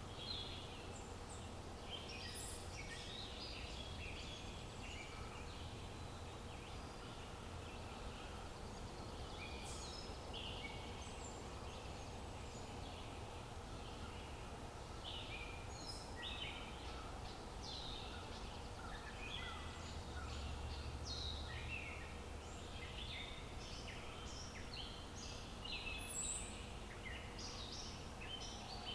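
Outdoor ambience of many birds chirping and trilling in short calls throughout, over a steady low background rumble.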